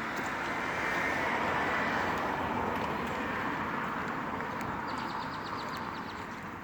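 Vehicle running along a street: a steady rush of engine and tyre noise that swells about a second in and then slowly fades. A short run of quick, high ticks comes near the end.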